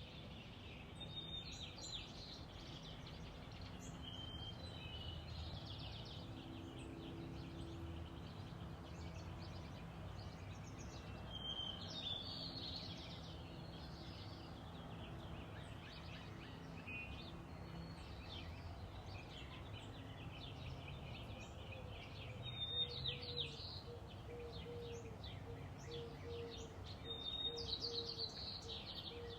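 Birds singing, short song phrases of a clear note followed by rapid trills recurring every few seconds, over a steady low background rumble.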